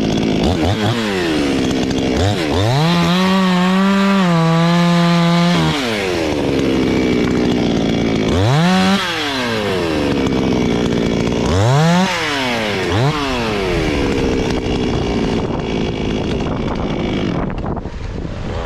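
Chainsaw engine revving. It is held at high revs for about three seconds, then blipped three times in quick rises and falls, dropping back to a lower running speed between revs.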